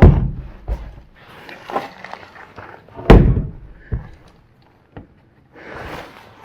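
Two heavy thuds about three seconds apart, the first right at the start, with lighter knocks and clatter between them.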